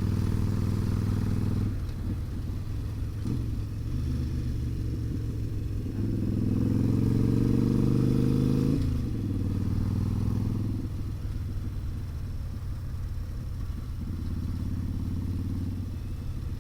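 Harley-Davidson V-twin motorcycle engine running under way, heard from a mic on the rider's helmet. About six seconds in it revs up in a rising pitch for a couple of seconds, then drops off suddenly.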